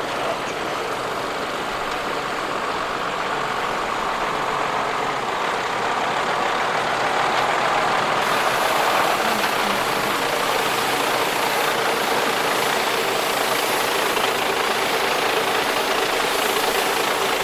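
A vehicle engine, likely a truck's, running steadily and slowly growing louder.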